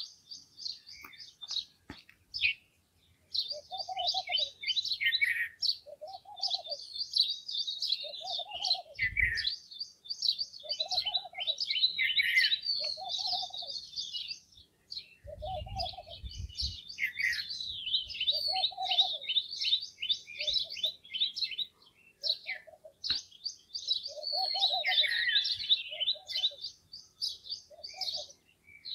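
Morning chorus of many small birds chirping rapidly and almost without pause, with a lower call repeating about every one and a half seconds underneath.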